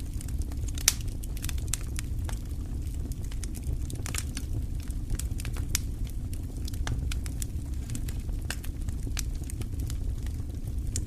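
Wood fire crackling in a fireplace: irregular sharp pops and snaps, one louder pop about a second in, over a steady low rumble.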